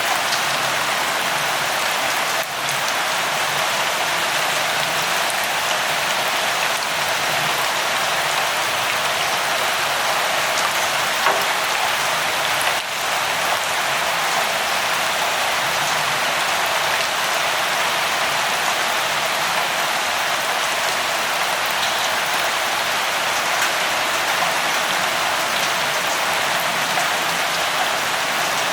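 Steady rain, a dense even hiss of rainfall with scattered individual drops ticking through it.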